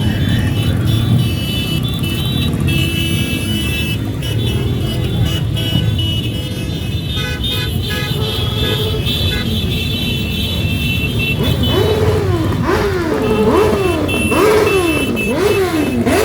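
Many motorcycles passing in a parade, their engines rumbling steadily, with horns sounding in the first half. Over the last few seconds one engine is revved up and down repeatedly, under a second per rev.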